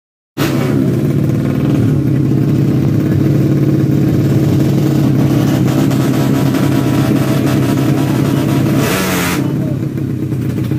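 Tuned 130cc four-stroke underbone drag bike engine running loud at high, fairly steady revs, cutting in abruptly. A brief rush of noise comes about nine seconds in.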